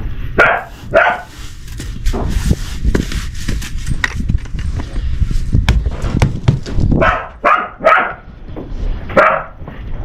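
A dog barking at pigs: two barks near the start, then a run of barks from about seven seconds in.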